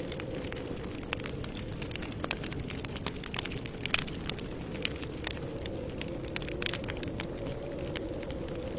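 Campfire crackling: irregular sharp pops and snaps, a few louder than the rest, over a steady low rush of burning wood.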